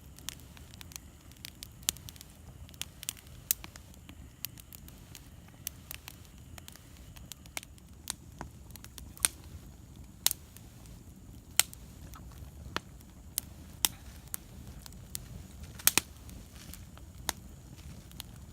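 Wood bonfire crackling, with irregular sharp pops about once or twice a second over a low steady rumble.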